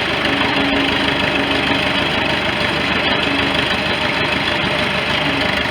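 1973 International 3444 loader tractor's engine running steadily as the tractor drives along in low gear, carrying a loaded bucket.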